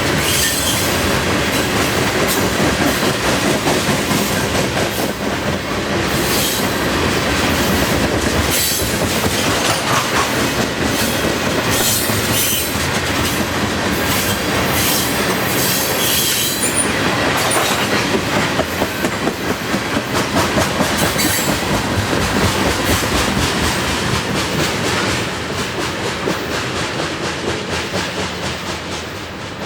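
Freight cars of a long train rolling past at about 26 mph, their steel wheels clacking steadily over rail joints, with bursts of high wheel squeal. The noise eases off slightly near the end.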